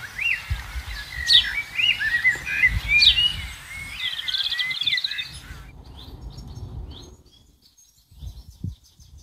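Songbirds singing, with many short chirps and quick trills. Their song stops suddenly about five and a half seconds in, leaving only faint background and a couple of low thuds near the end.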